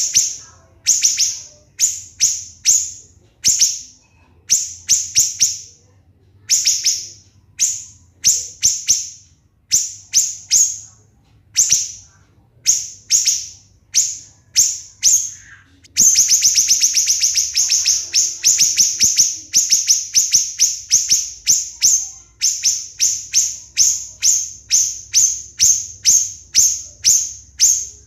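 Siri-siri bird singing a long string of sharp, shrill, high notes, each a quick falling chirp, first in small groups of two to four, then from about halfway through in a fast unbroken run of many notes a second: the dense 'tembakan' shooting song prized for training competition songbirds.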